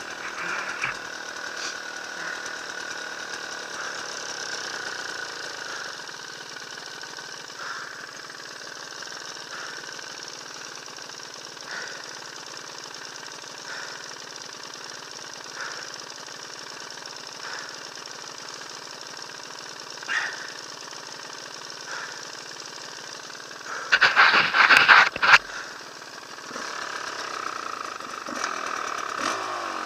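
Enduro dirt bike engine running steadily, with a loud rough burst lasting about a second about 24 seconds in.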